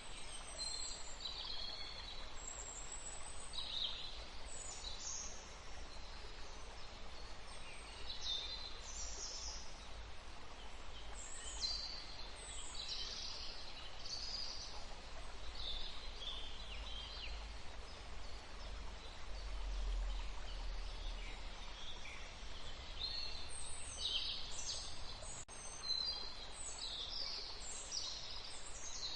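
Small songbirds chirping in many short, high calls throughout, over a steady low background rumble that swells briefly around the middle.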